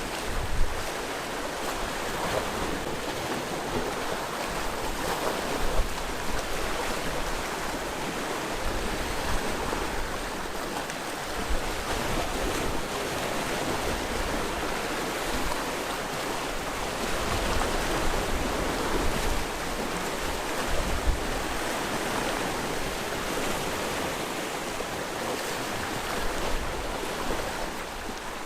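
Sea waves washing onto the shore in a continuous rush of surf. Brief low rumbles and a few short, louder peaks come through now and then.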